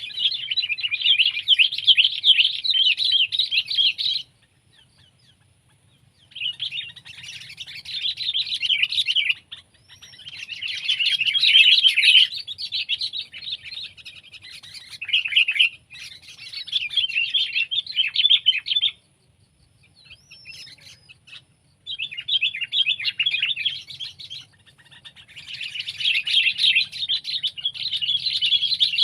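Sooty-headed bulbul (kutilang) calling in about six bouts of rapid, dense chattering, each a few seconds long with short pauses between.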